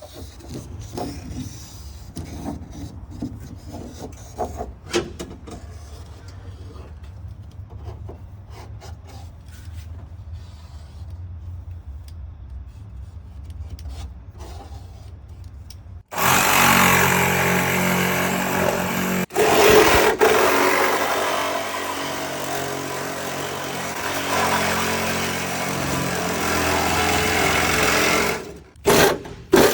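Workshop clatter of hand tools and car parts being handled, with scattered knocks. About halfway through, a loud power tool starts abruptly and runs steadily, cutting out briefly near the end.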